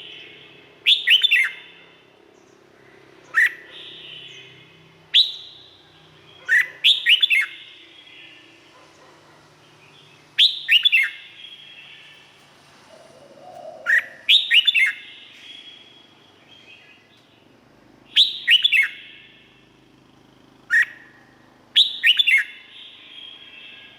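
Red-whiskered bulbul singing short, sharp phrases of falling notes, some single and some doubled or tripled, repeated every two seconds or so with an echoing tail after each.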